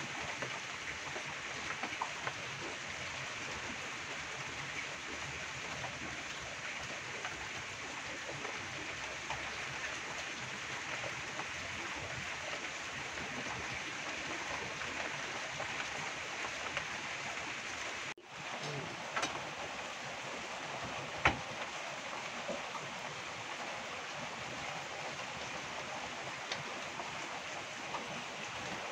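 Steady rain falling, an even, continuous hiss. A few short clicks rise above it, with one sharper knock about twenty-one seconds in.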